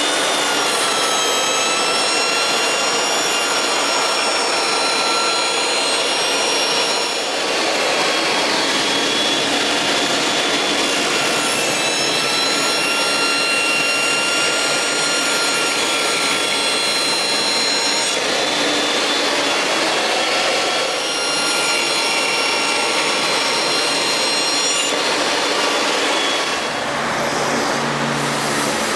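Electric power saw running and cutting wood: a loud, steady whine with a brief dip in level about a quarter of the way through and twice more later on.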